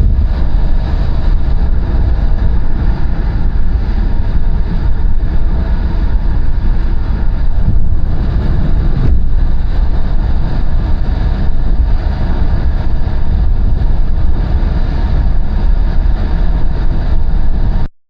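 Loud, steady road and engine rumble of a car driving at highway speed, cutting off suddenly near the end.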